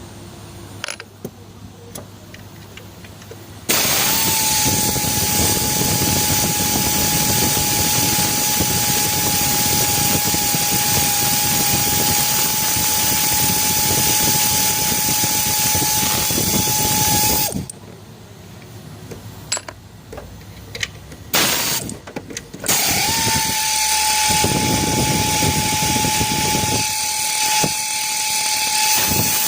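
A few light tool clicks, then a power tool spins up and runs with a steady high whine over a loud hiss for about fourteen seconds. It stops for a few seconds of clicks and handling, then spins up again and keeps running.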